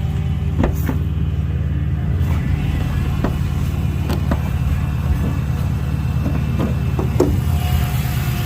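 Dodge 6.1-litre Hemi V8 idling with a steady, low, pulsing rumble, with a few short knocks or clicks over it.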